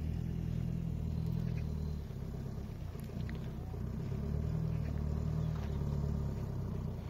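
A vehicle engine running steadily, a low rumble that drops back briefly about two seconds in and again near four seconds.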